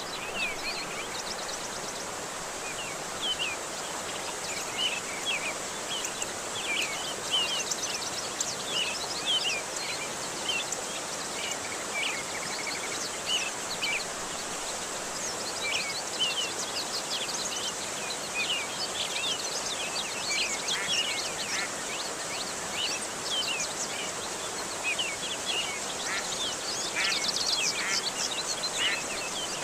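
Steady rushing water with many short bird chirps and twitters over it, thickest near the end.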